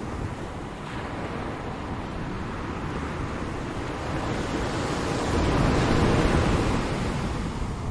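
Ocean surf: waves washing ashore in a steady rush. One wave swells up and breaks a little past the middle, then recedes.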